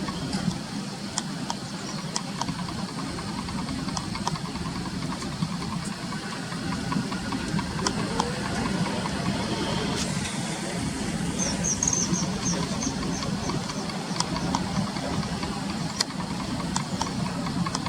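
Steady low background rumble, with a quick run of about eight high, thin bird notes a little past the middle.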